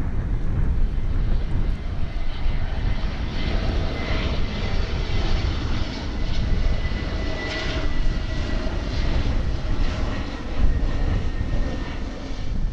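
ANA jet airliner passing low overhead: a loud, steady engine rumble with a faint whine heard through the middle of the pass.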